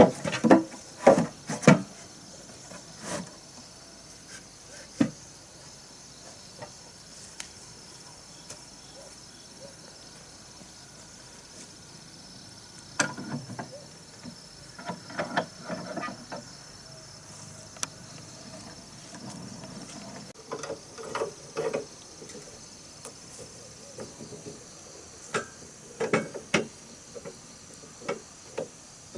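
Irregular clusters of sharp wooden knocks and thuds, the handling and fitting of wall boards, over a steady high insect drone.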